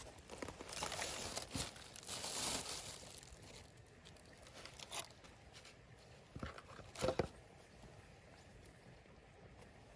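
Rustling and handling noises for the first few seconds, then a few scattered knocks and clicks about five and seven seconds in.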